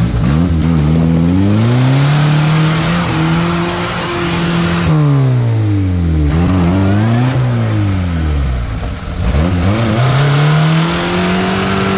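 Off-road vehicle's engine revving hard. The revs climb, hold high for a few seconds, then fall and climb again several times, with a steady noisy hiss underneath.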